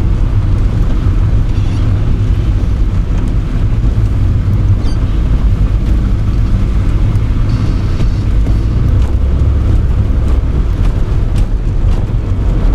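Opel Kadett D (Astra Mk1) 1.6S automatic estate driving along a slushy road: a steady low rumble of engine and tyres on wet slush.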